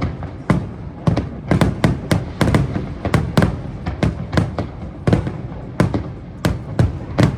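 Aerial fireworks shells bursting in a rapid, irregular string of bangs, two to three a second, each with a short echoing tail.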